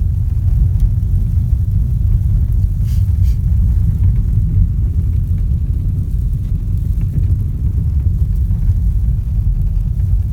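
VW Golf driving, a steady low rumble of road and engine noise.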